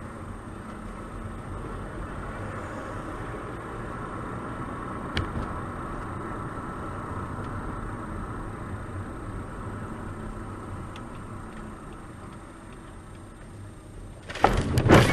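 Steady road and engine noise inside a moving car, with a single click about five seconds in. Near the end come several loud bangs close together, the sound of a collision.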